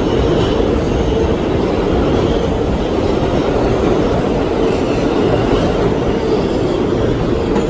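R1/9 subway train running along the line, heard from on board: a steady rumble of wheels on rail with a constant droning hum.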